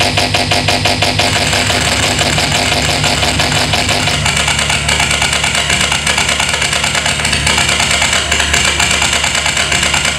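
Loud, dense harsh noise with a fast pulsing texture, part of an electronic noise-music piece.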